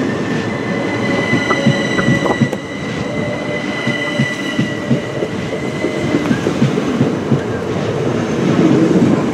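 Class 375 Electrostar electric multiple unit moving past along the platform: a loud low rumble with many quick clacks of wheels over rail joints, and a high steady whine that fades about six seconds in.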